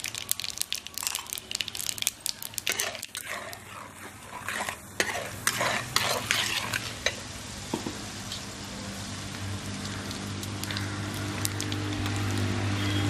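Lentils and mustard seeds frying in hot oil in a kadai, stirred with a steel spatula. Sharp crackles and metal scrapes against the pan fill the first half, then settle into a steady sizzle.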